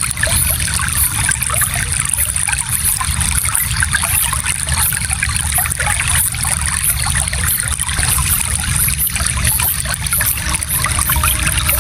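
Small stream flowing steadily, water trickling and babbling over stones.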